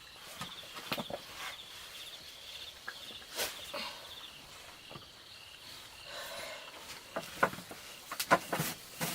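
Insects trilling in a fast, high pulsing chirp through the first half, then several sharp taps and knocks close together near the end.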